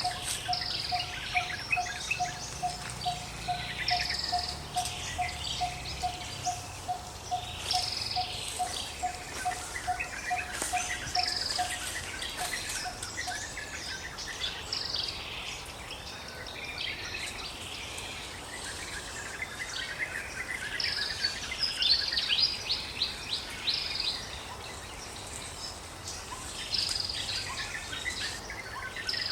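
Forest ambience with several birds singing in short, repeated chirping phrases every second or two. Under them, a steady run of evenly spaced single-pitch notes, about three a second, stops about thirteen seconds in.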